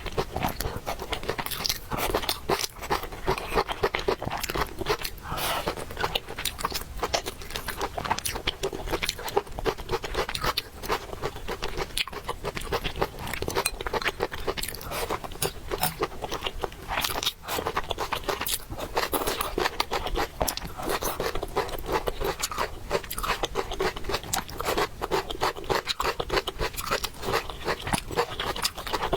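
A person chewing and eating noodles close to the microphone: a dense, unbroken run of small mouth clicks and bites.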